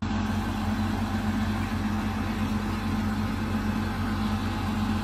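Heavy-equipment engine running steadily at an even pitch.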